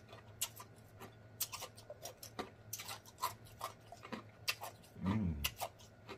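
Close-miked chewing with the mouth closed: irregular wet lip smacks and mouth clicks from eating fried chicken, with a short hummed 'mmm' about five seconds in.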